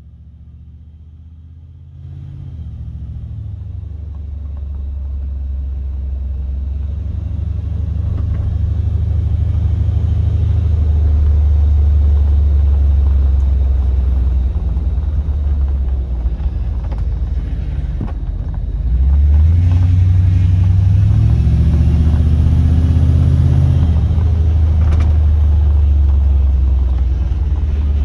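Ford 5.0-litre V8 in a 1955 Ford F100 pickup running under way, a deep low rumble that builds as the truck gathers speed. About two-thirds of the way in it eases off briefly, then the engine note rises again under acceleration.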